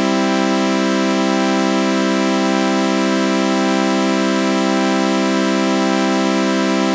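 Synthesized sawtooth-wave chord with a flanger effect, held as one unbroken, unchanging organ-like drone with a faint slow shimmer.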